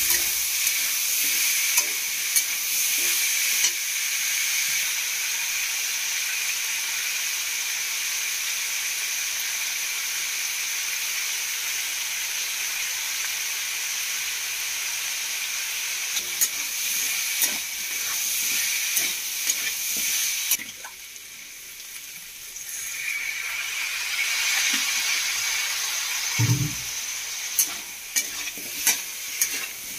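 Vegetables sizzling in hot oil in a kadhai, with a metal spatula scraping and knocking against the pan as they are stirred. The sizzling thins for about two seconds a little past the middle, and the spatula knocks come more often in the second half.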